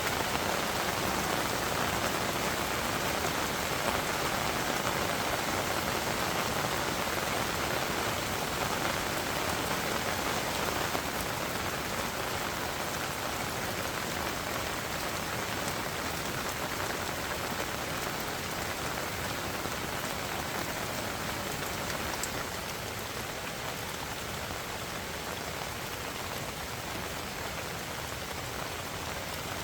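Heavy rain falling steadily, a little quieter over the last several seconds.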